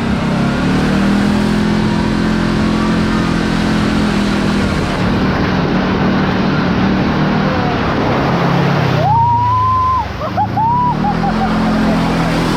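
Kawasaki KRX4 1000 side-by-side's parallel-twin engine running under way on a trail, with tyre and drivetrain noise; the engine note drops as it slows about nine seconds in, then climbs again as it speeds back up.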